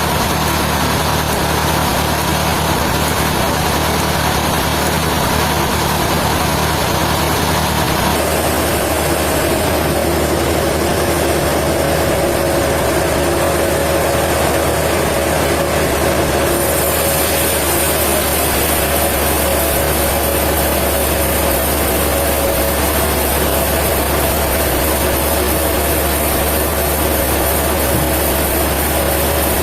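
Sawmill machinery running steadily, a loud continuous mechanical hum and whine whose tone changes abruptly about 8 seconds in and again about halfway through.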